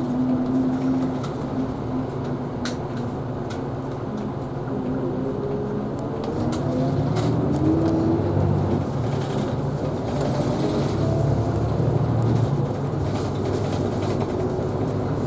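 Isuzu Erga Hybrid city bus running, heard from inside: a steady low engine drone, with a motor whine that rises in pitch for several seconds in the middle as the bus picks up speed.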